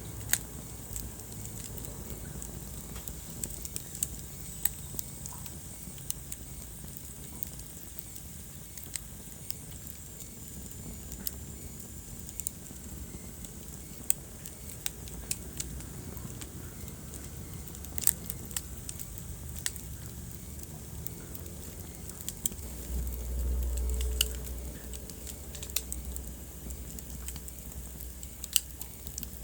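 Wood fire burning in a fireplace: irregular sharp crackles and pops over a steady low rumble of the flames. The low rumble swells for a couple of seconds about three-quarters of the way through.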